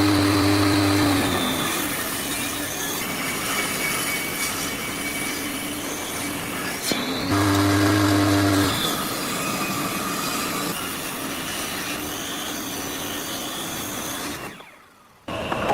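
Electric power tool working wood, running steadily with a louder spell and steady hum at the start and again about seven seconds in; it cuts off near the end.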